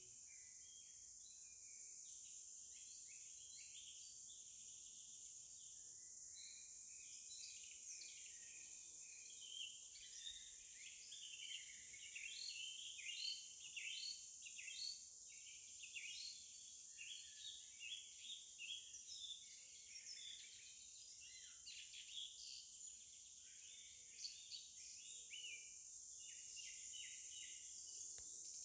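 Faint nature ambience: many birds chirping in quick short calls over a steady high insect drone.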